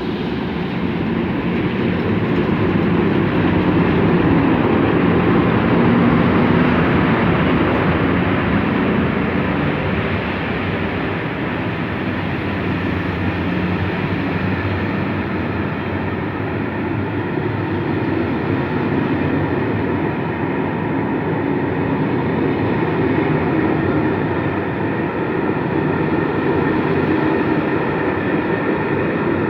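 Passenger train running on the rails: a steady rumble of wheels on track, swelling slightly a few seconds in.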